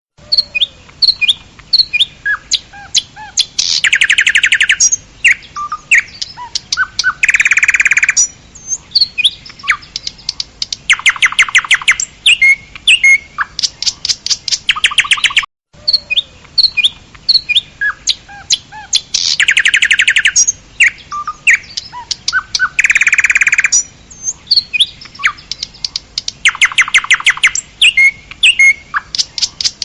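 Birds singing: short, sharp chirps and whistled notes, broken up by several loud, fast trills. The same roughly fifteen-second stretch of song plays through twice, with a brief cut about halfway.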